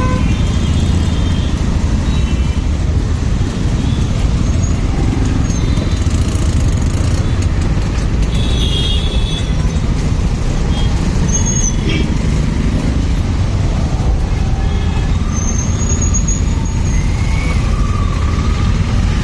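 Motorcycle riding in traffic: a steady low rumble of wind, road and engine noise, with a few brief high tones from traffic around the middle.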